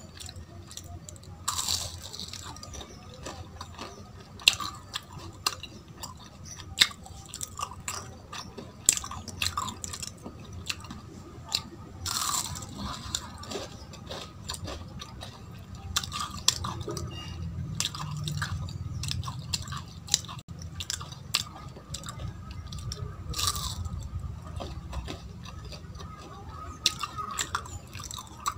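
Close-up mouth sounds of someone biting and chewing syrupy, crisp jalebi: irregular wet clicks and crunches, with a few louder crunchy bites spread through.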